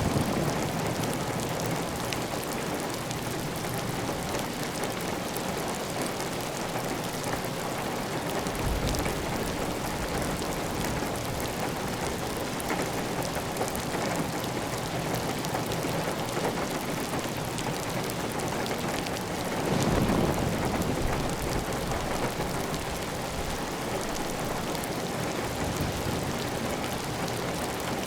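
Heavy rain falling steadily on a clay-tile roof, with water running off the roof edge. A louder, deeper surge rises for about two seconds around two-thirds of the way through.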